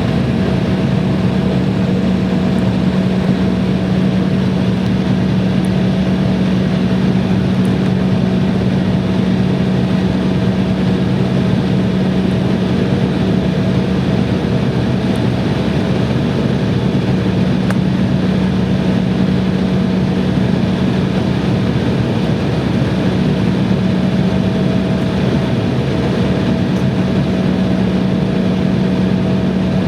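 Airliner engines running steadily: a constant loud hum with a steady low drone that does not change.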